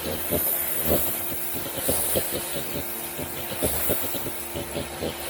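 Sunjoe electric pressure washer running: a steady hum from the electric motor and pump over a loud hiss of the water jet, with irregular crackling spatter as the oscillating tip's spray hits the deck.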